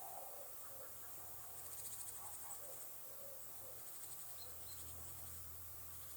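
Faint high, rapid insect trilling, strongest about two seconds in, with soft short calls lower down and a steady low hum.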